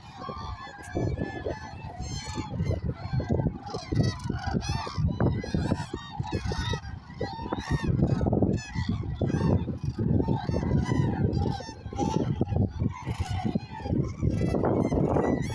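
A large flock of common cranes calling together, many overlapping trumpeting calls at once, over a low rumble.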